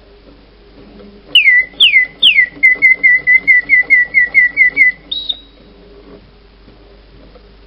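Clockwork singing-bird automaton whistling its song: starting about a second in, three falling whistles, then a run of about ten quick chirps at about four a second, ending on a short higher note before it pauses.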